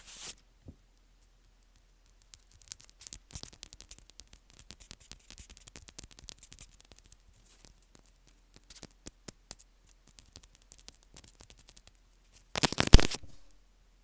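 Earphone ASMR: fast crackling clicks and scratches from in-ear earphones being handled and rubbed while they serve as the microphone, with one louder rustling burst near the end.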